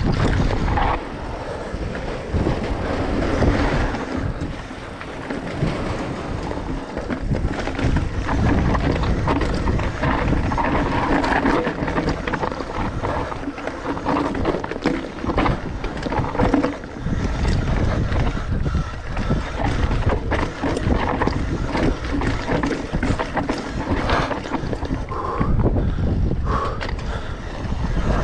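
Wind buffeting the microphone of a rider descending a mountain bike trail, with a steady low rumble from the bike rolling over rough ground.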